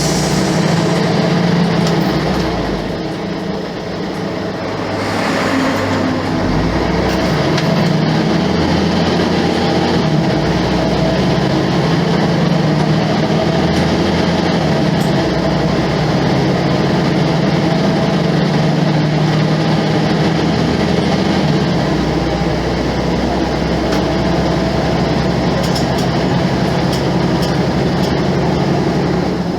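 Volvo B10M bus's diesel engine running, its note changing in steps every few seconds with a brief dip in loudness about three seconds in, as the engine speed varies.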